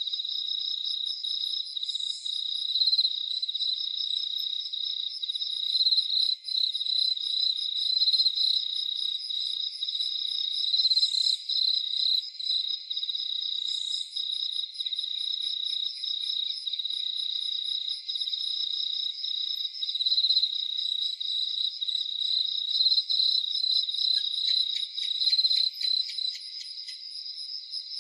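Crickets chirping in a steady, fast-pulsing trill, with a fainter, higher-pitched insect pulsing above it. Near the end a quick run of ticks joins in.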